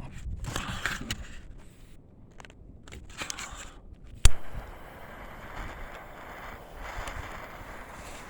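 Light, uneven scraping on the plastic patch of a boat hull being smoothed during a plastic-weld repair, then one sharp click a little over four seconds in, after which a steady hiss runs on.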